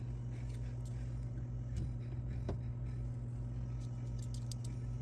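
A steady low hum with a few light clicks and taps scattered through it, a small cluster of them near the end.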